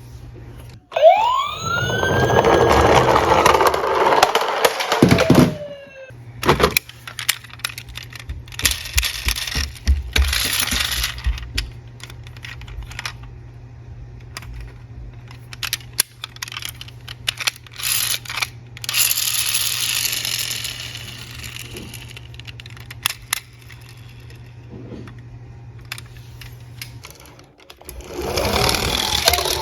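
A siren wails about a second in, rising and then falling over several seconds; after it, small diecast toy cars roll and clatter down a slope, with many sharp clicks and stretches of rolling noise. Another siren-like burst comes near the end.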